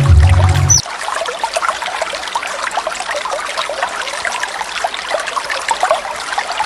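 Running water with a bubbling, trickling sound, the natural waterfall track of a birdsong-training recording. A loud low hum cuts off suddenly just under a second in.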